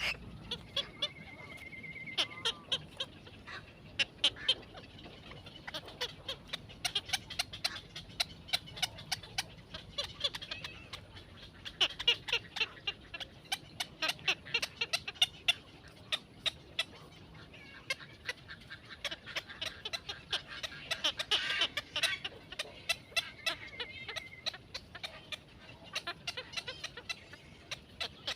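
Small birds calling with many short, sharp chirps, several a second in irregular bunches, and a brief steady whistled note twice.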